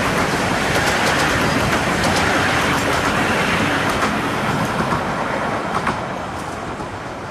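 Carriages of a 15-inch gauge miniature passenger train rolling past on the rails, the wheels clicking over the rail joints. The sound fades near the end as the train draws away.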